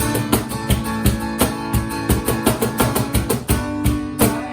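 Worship band playing an instrumental passage between sung lines: guitar strumming over bass and a steady beat.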